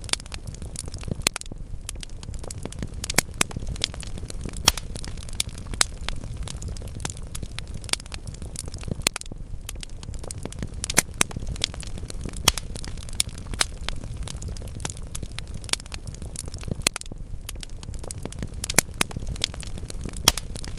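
Wood fire burning in a fireplace: a steady low rumble of flames with irregular sharp crackles and pops from the burning logs, several loud pops standing out.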